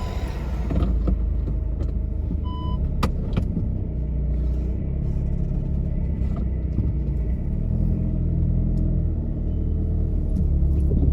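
A car driving with a steady low engine and road rumble. A short high beep sounds about two and a half seconds in.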